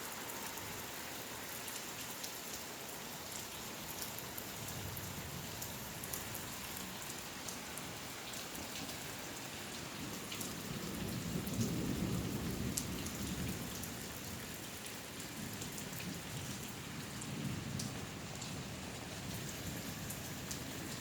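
Heavy rain falling steadily, with the patter of drops hitting surfaces. A low rumble of thunder swells up about halfway through, lasts a few seconds and fades out.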